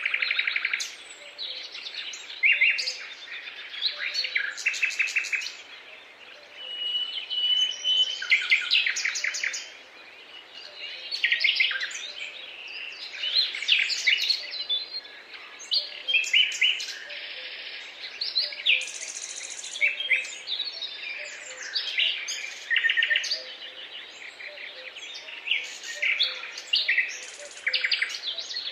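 Several songbirds singing at once in a dawn-chorus mix of rapid chirps, trills and short whistles, overlapping without pause.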